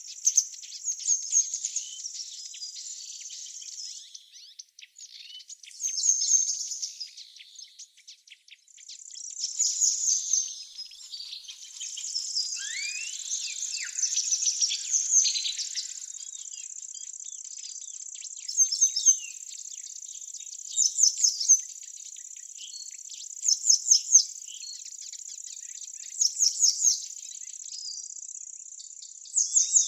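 Songbirds chirping and singing over a steady high-pitched insect trill. From about eighteen seconds in, one bird repeats a short, quick run of chirps every two to three seconds.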